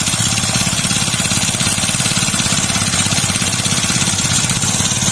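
Small four-stroke engine of a power sprayer running steadily with a fast, even firing beat, freshly fitted with a new carburetor after the old one failed; it runs smoothly, like new.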